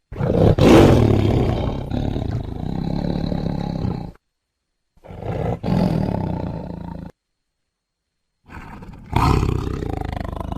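Siberian (Amur) tiger roaring: three separate roars cut together with dead silence between them. The first is the longest, at about four seconds, and the third begins low and swells near the end.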